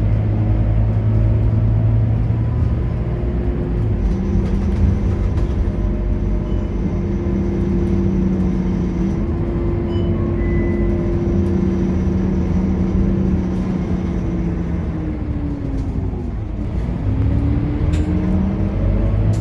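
Scania K230UB bus's diesel engine and ZF automatic gearbox pulling steadily under way, the engine note holding and slowly climbing, then dipping and climbing again near the end.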